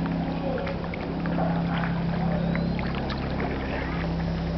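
Kayak paddling on open water: scattered paddle splashes and water lapping against the hull, over a steady low hum.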